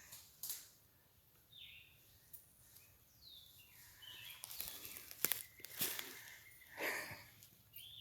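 Footsteps on a woodland trail, clustered in the second half, with a few short bird calls that bend in pitch between them.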